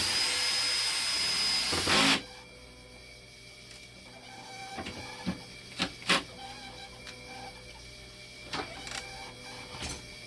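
A loud hiss with a thin high whistle in it, lasting about two seconds and ending in a brief louder burst, then several light clicks and knocks scattered through the rest.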